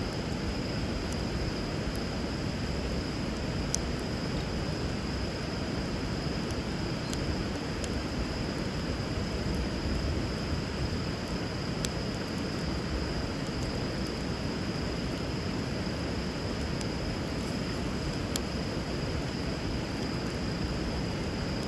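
Steady rush of flowing river water, with a wood fire giving a few sparse sharp crackles and a steady high faint tone running through it.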